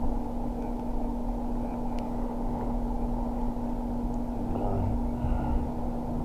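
Steady engine hum of an idling vehicle over constant outdoor noise, with faint voices about four and a half seconds in.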